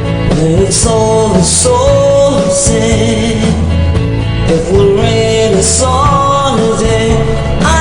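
Live band music: a singer's voice over guitar and bass with a steady beat and occasional cymbal crashes.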